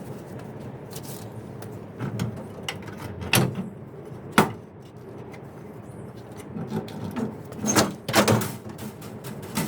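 Scattered metal knocks and clanks of hand work on an engine, the loudest a single sharp knock about four seconds in, with a cluster of knocks near the end, over a low steady hum.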